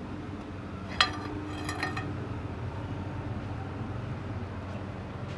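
Metal clinking: one sharp ringing clink about a second in, then a few lighter clinks, over a steady low hum.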